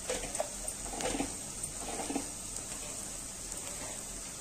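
Egg masala frying gently in an aluminium pot over a gas flame: a steady soft sizzle, with a few faint clicks in the first two seconds.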